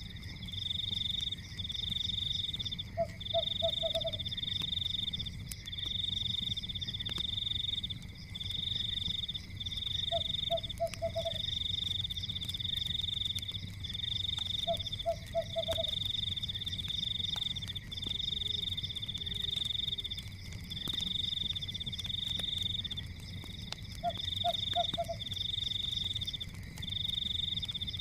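A night chorus of frogs and insects: rapid high-pitched trills repeat almost without pause over a steady high drone, and a short low croak of three or four pulses comes every four to five seconds. Faint crackling and a low rumble run underneath.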